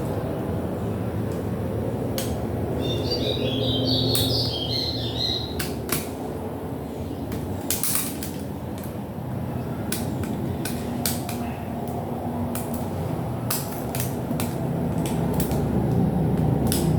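Scattered sharp clicks and knocks from the parts of a Philips stereo being handled during disassembly, over a steady low rumble. Between about three and five seconds in there is a brief high chirping.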